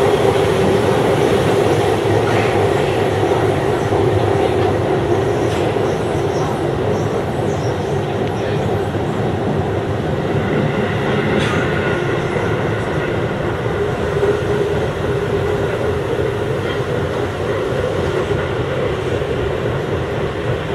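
Chiba New Town Railway 9000 series electric train running along the line, heard from inside the front of the car: a steady rumble of wheels on rail with a constant hum.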